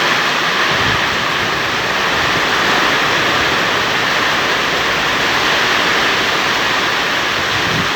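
Heavy downpour: rain pouring down in a steady, loud hiss.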